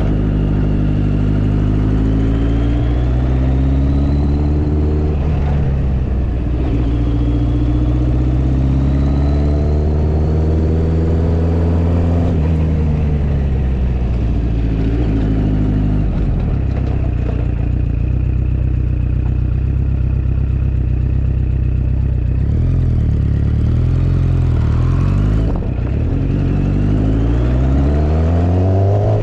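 Motorcycle engine under way, revving up through two gears with a shift between them, then easing off to a steady cruise, with the revs wavering and climbing again near the end.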